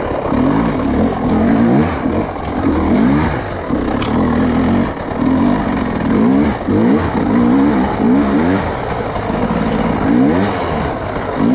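Off-road vehicle engine revving up and down over and over, its pitch rising and falling about once every second or so as the throttle is worked.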